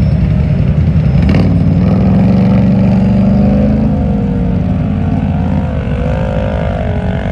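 Loud mud truck engine running and revving. The pitch climbs in the first half, then a higher engine note wavers up and down.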